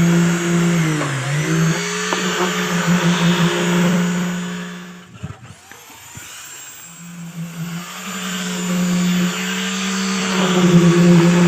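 A motor-driven machine runs steadily on site during concrete casting. Its pitch sags briefly about a second in, as if under load. It fades away around the middle and then builds back up to full speed.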